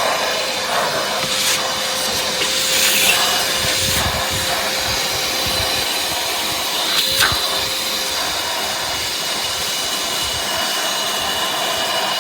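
Armor All AA255W 2.5-gallon wet/dry shop vac running steadily: an even rushing of air over a constant motor hum and faint high whine, with a couple of light knocks along the way.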